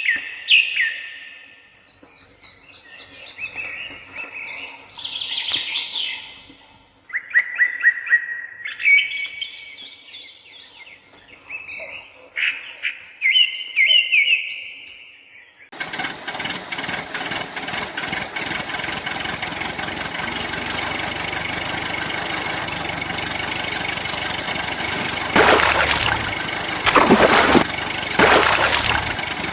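Birds chirping with short, repeated calls for about the first half. About halfway through it cuts abruptly to a steady, dense mechanical noise that gets three louder bursts near the end.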